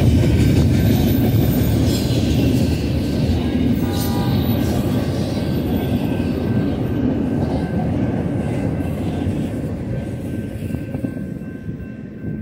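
Cars of a Union Pacific intermodal freight train rolling past on the mainline: a steady low rumble of steel wheels on rail, with thin wheel squeals and a brief squeal about four seconds in. The rumble dies down over the last couple of seconds.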